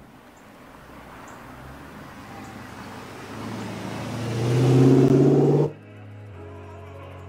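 2008 Dodge Challenger SRT8's 6.1-litre HEMI V8 driving past close by, getting louder as it approaches and loudest about five seconds in, then cut off abruptly by soft background music.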